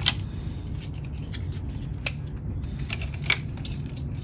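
Sharp metallic clicks and clinks of hand tools and engine parts being handled during spark plug and ignition coil reassembly, a few seconds apart, over a steady low hum.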